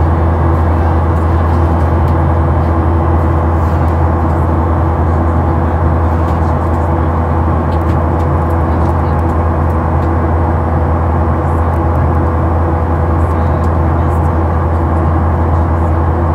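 Steady cabin noise inside a Boeing 737-800 in flight: the drone of its CFM56 engines and rushing air, with a strong low hum and a few faint steady tones.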